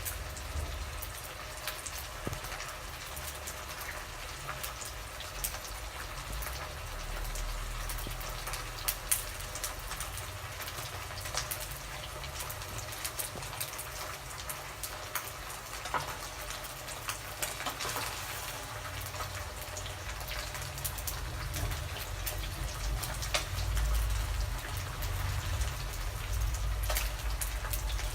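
Pieces of sun-dried cobia frying in hot oil: a steady sizzle with frequent small pops and crackles.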